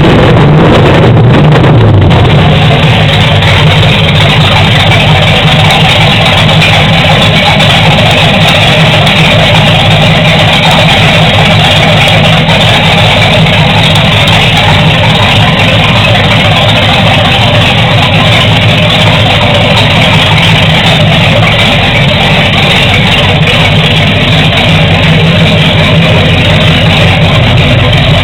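Chevrolet 454 big-block V8 running without mufflers, loud. It is revved briefly at the start, then settles into a steady idle.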